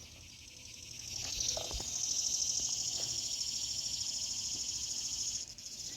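A singing insect's high, fast-pulsing buzz that swells in over the first couple of seconds, holds steady, and drops away near the end.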